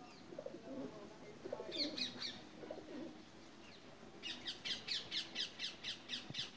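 Birds calling: low, wavering calls through the first three seconds, a short cluster of high chirps about two seconds in, then from about four seconds a rapid run of high chirps, about five a second.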